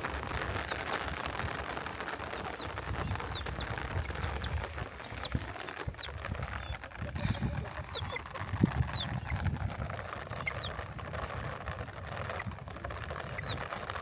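A bird calling over and over: short, high chirps that slide downward in pitch, coming about one or two a second, over a low rumble.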